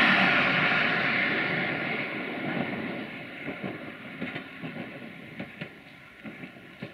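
Siemens Desiro diesel multiple unit running past on the rails. The rushing run noise is loudest at the start and fades steadily, and from about halfway through the wheels click over rail joints several times a second.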